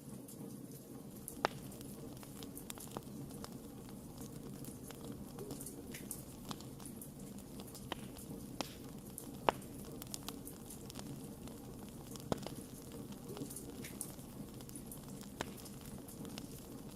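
Wood fire crackling: a steady low rush of burning with scattered sharp pops and snaps. The loudest pops come about a second and a half in, about halfway through, and again a few seconds later.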